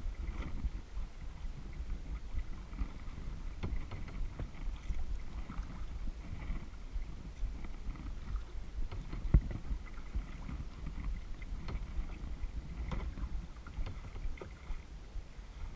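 Kayak on the water: paddle strokes and water against the hull, with scattered knocks and one louder thump a little after nine seconds in.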